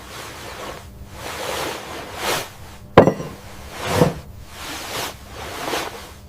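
A run of swishing, scraping sounds about once a second, with a sharp click about three seconds in and a dull knock a second later.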